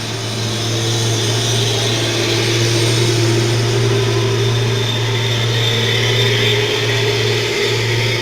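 Truck engine pulling up a slope, growing louder over the first couple of seconds and then holding a steady, low, even drone.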